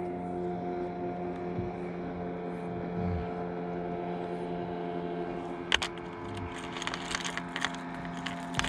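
Boat's outboard motor running at a steady speed, a constant even hum that does not change pitch. A few sharp clicks and taps come in over the second half.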